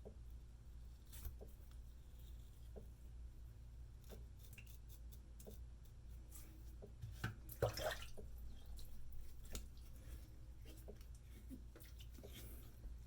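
Straight razor scraping lightly over nearly bare skin in short, faint strokes, catching the few remaining stubble hairs, with one louder scrape a little past halfway.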